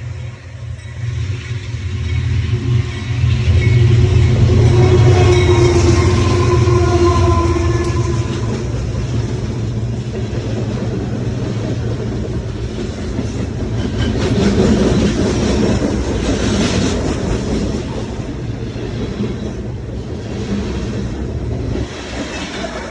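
A train running by: a heavy low rumble, loudest about four to eight seconds in, with a steady ringing tone riding over it in that stretch.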